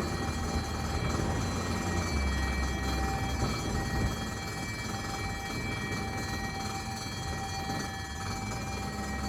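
Ambulance engine running steadily, a low rumble with faint steady high-pitched tones over it.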